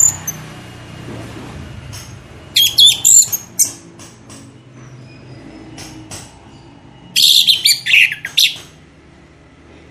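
A songbird singing in two loud bursts of rapid, high, sliding chirps and trills, about four seconds apart, with a few faint single chirps in between.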